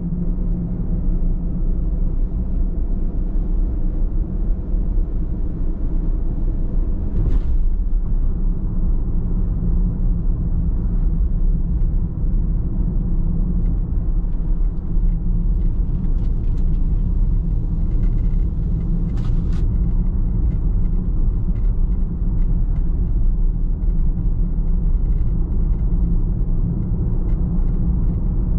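Car driving at steady speed: a continuous low rumble of road and engine noise, with a couple of faint clicks.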